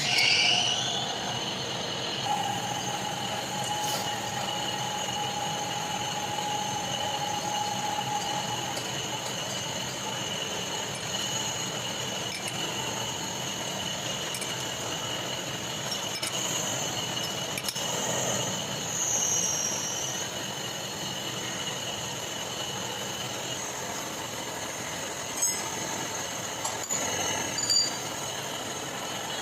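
Metal being machined: a machine tool cutting steel with a steady high-pitched squeal, a lower steady tone for the first several seconds, and a few sharp clicks near the end.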